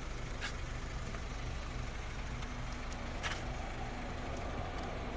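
A 1996 Honda Civic hatchback's four-cylinder engine idling with a steady low hum, with a couple of faint ticks.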